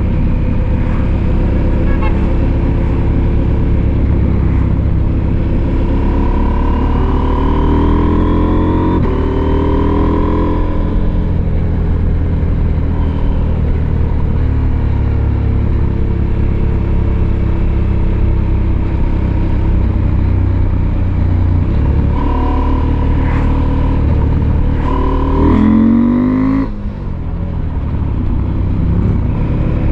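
Husqvarna Norden 901's parallel-twin engine running under way. It revs up with rising pitch from about 7 to 11 seconds in, and again from about 25 seconds, then briefly drops off just before 27 seconds before settling back to a steady run.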